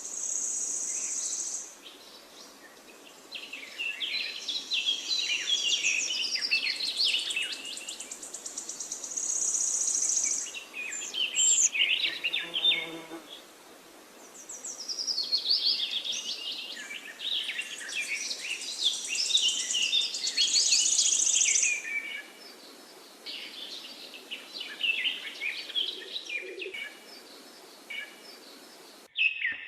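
Songbirds singing, several overlapping phrases of rapid chirps and trills coming in bursts every few seconds, with a high, thin buzzy note recurring among them.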